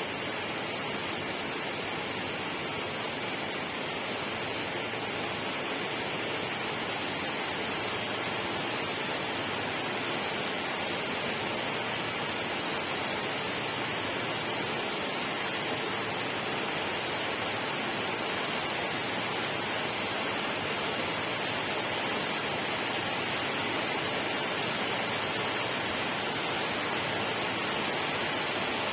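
Steady, even rush of water, with no separate drops, splashes or other events.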